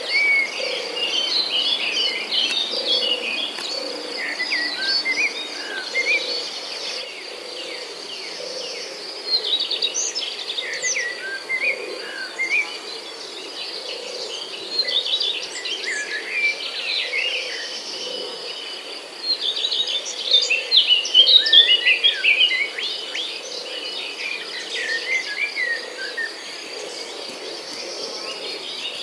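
Several birds chirping and singing over a steady high insect trill, with a soft low call repeating about once a second throughout.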